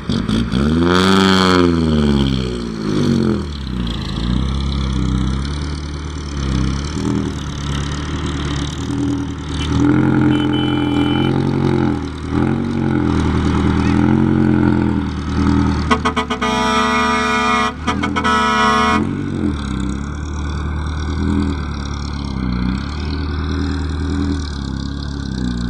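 Isuzu NPR115 truck's diesel engine working under a load of sugarcane, its engine speed rising and falling repeatedly. About two-thirds of the way through, a horn sounds for about three seconds.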